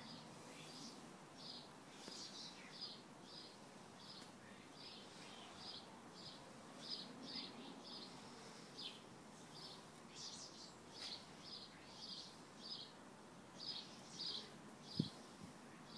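Faint, steady chirping of a small bird, short high chirps repeating about twice a second. Near the end, one sharp knock.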